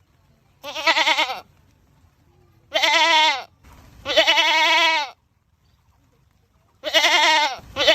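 Goats screaming: about five loud, drawn-out bleats with a wavering pitch, separated by short pauses, the last still going at the end.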